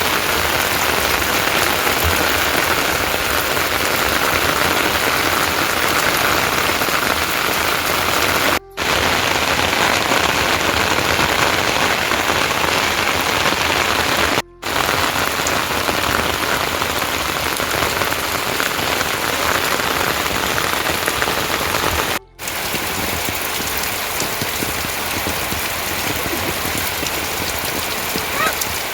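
Heavy rain falling steadily, an even dense hiss. The sound cuts out for a split second three times, at joins between shots.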